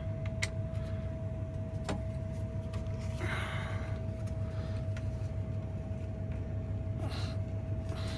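A Phillips screwdriver working a small screw in a truck's steering column: a few sharp clicks and short scraping sounds over a steady hum with a constant tone.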